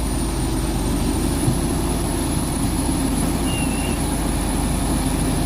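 Heavy diesel truck engine running steadily in a low, unbroken drone while the truck is bogged in deep mud. A thin, steady high tone sits above it.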